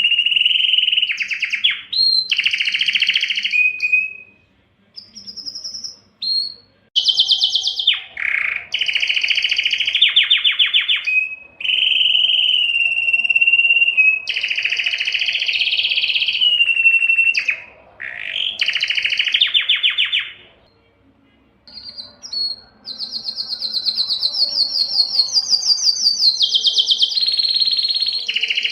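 Spanish timbrado canary singing: long phrases of fast, rolling trills, some held on one pitch and others stepping up or down, with a short break about four seconds in and a longer one past twenty seconds.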